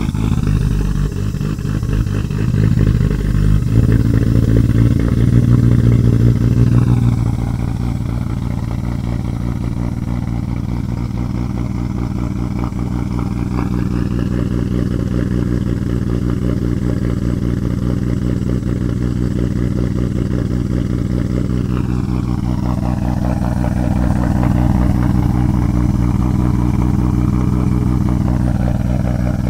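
Nissan Skyline R33 GT-R's RB26 twin-turbo straight-six idling through a new Tomei titanium exhaust, loud and deep, with the lumpy idle of aftermarket cams. It runs louder for the first several seconds, then settles to a steady idle.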